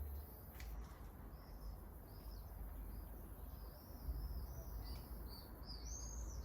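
Small songbird singing in short, high, arched chirps, sparse at first and coming thick and fast in the second half, over a low steady rumble.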